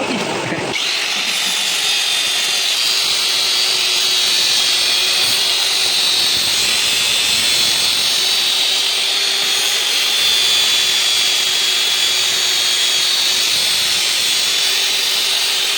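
Electric power tool running steadily, starting about a second in: a high whine over a hiss.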